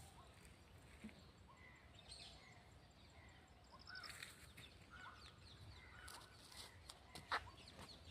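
Birds faintly calling and chirping, short scattered calls, over a quiet rural background, with one sharp click about seven seconds in.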